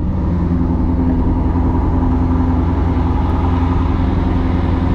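2002 Chevrolet Corvette Z06's LS6 5.7-litre V8, fitted with Kooks long-tube headers, idling steadily while it warms up after starting.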